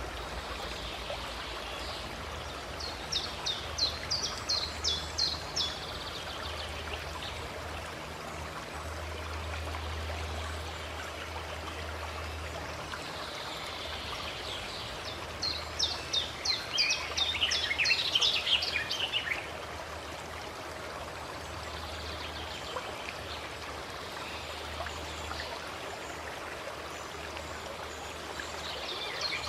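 A stream running steadily. A songbird sings twice over it: a rapid run of high, repeated notes lasting about three seconds, about three seconds in and again about fifteen seconds in.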